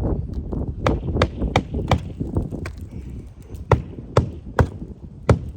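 Hammer striking roofing nails on an asphalt shingle roof: a series of sharp, irregular knocks, at times two or three a second, as the nails are driven to get them flat in the shingle.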